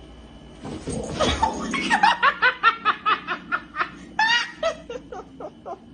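A rush of noise, then someone laughing hard in quick, rhythmic high-pitched bursts, about five a second.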